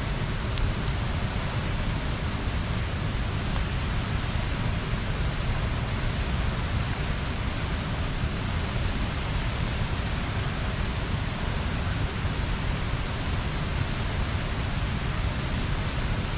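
Wood bonfire burning with a steady rushing hiss and a few sharp pops, about half a second in, about a second in and near the end.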